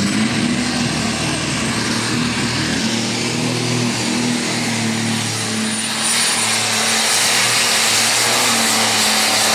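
Light modified pulling tractor running flat out under load on the sled. Its engine makes a steady drone under a loud rushing noise, and a high whine rises at the start and then holds. The sound swells about six seconds in.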